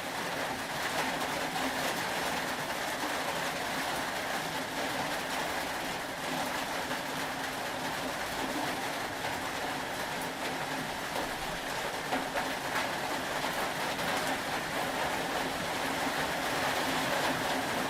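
Steady rain: an even wash of noise with faint scattered ticks and a low steady hum underneath.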